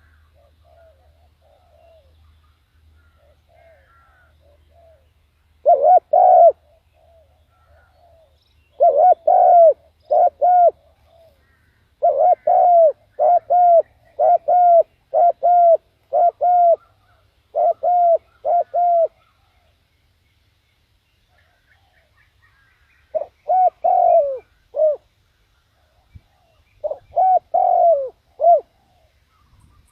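Spotted dove cooing: loud phrases of short repeated coo notes, with softer coos before them and a pause of a few seconds in the middle. It is a decoy bird calling to lure wild doves.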